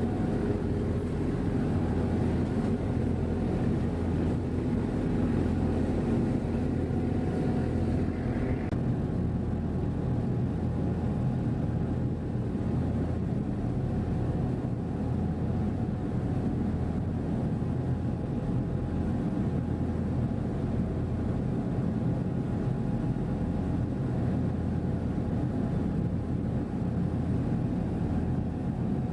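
Steady, unbroken engine drone of a passenger ferry under way, as heard on board, with a low hum and several steady tones.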